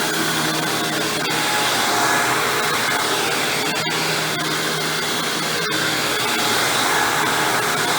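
Hoover WindTunnel Supreme upright vacuum running steadily as it vacuums, motor and chevron brush roll going without a break.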